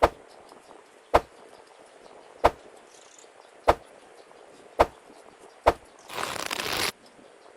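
Six sharp clicks or knocks, roughly one a second, then a short burst of hiss about six seconds in.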